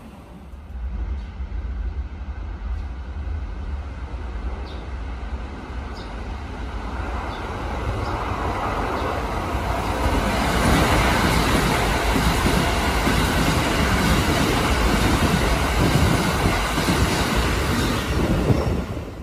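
A red Keikyu electric train comes out of the tunnel and runs past the station platform. After a lower rumble at first, it builds up and is loudest from about ten seconds in, then cuts off abruptly at the end.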